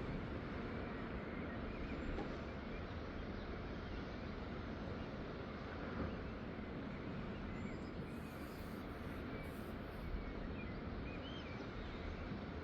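Steady outdoor ambient noise, heaviest in a low rumble, with a few faint high bird chirps between about six and ten seconds in.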